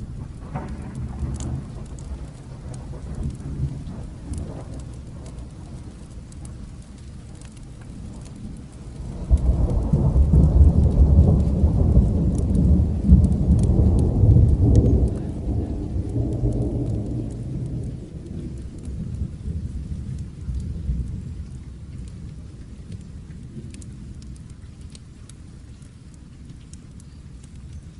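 Steady rain falling, with a long roll of thunder that breaks in suddenly about nine seconds in, rumbles heavily for several seconds and slowly dies away.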